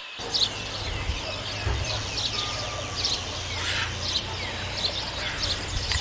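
Many small birds chirping and calling in quick short notes over a steady low background hum, like an outdoor nature recording.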